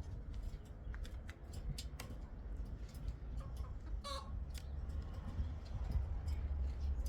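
A chicken gives a single short cluck about four seconds in, over a run of small clicks and a steady low rumble.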